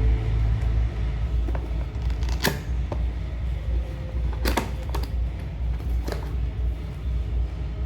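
Handling of a Philips hair dryer and its packaging: scattered clicks and knocks, the loudest about two and a half and four and a half seconds in, over a steady low rumble.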